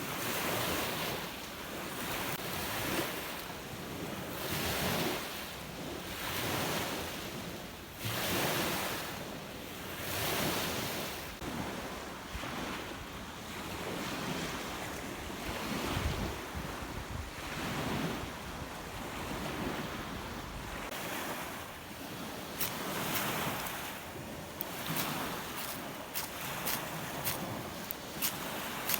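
Rough, wind-driven lake waves breaking and washing onto the shore in a strong wind, surging about every two seconds, with wind buffeting the microphone. Near the end comes a run of short, sharp clicks.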